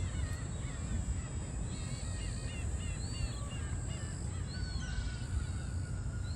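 A bird calling: a run of short, rising-and-falling calls two to three seconds in, a few more near the end, over a steady low rumble.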